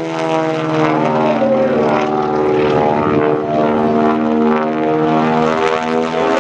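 Twin Beech 18's two radial piston engines running loud as the plane flies its display. The engine pitch wavers and shifts up and down as the two engines beat against each other.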